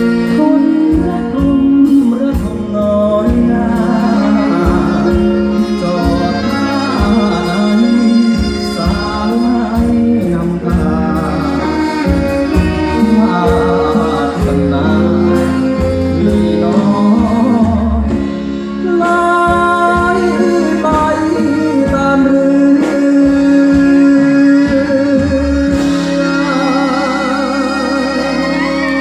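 A slow Thai song performed live: a singer's voice with vibrato over a live band's accompaniment and a steady low beat, ending on a long wavering held note.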